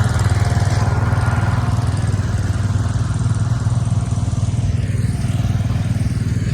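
A loud engine running steadily at an even speed, with a low, unchanging beat.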